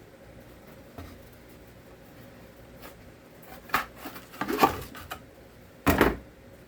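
Knocks and clatter of a chainsaw and its parts being handled on a bench: a light knock about a second in, a run of sharp knocks and rattles around four to five seconds in, and a louder knock near the end.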